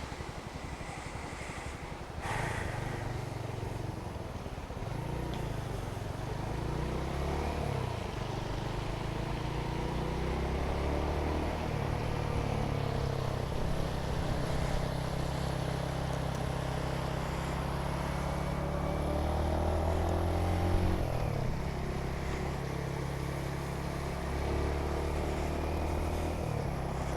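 Motorcycle engine running while riding, its note rising and falling several times, with wind and road noise.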